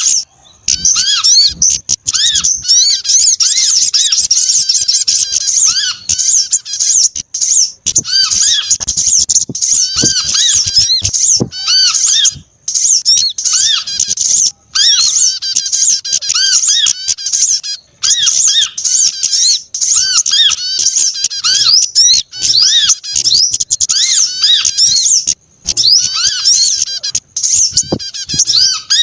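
A dense mix of small songbirds chirping and twittering, high and rapid, with a lower call repeated about once a second and a few short breaks. It is a layered bird-lure recording meant to draw small birds in.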